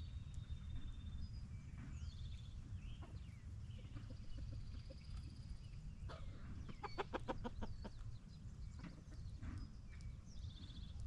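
Chickens clucking faintly, with a quick run of clucks about seven seconds in, over scattered chirps of small birds and a steady low rumble.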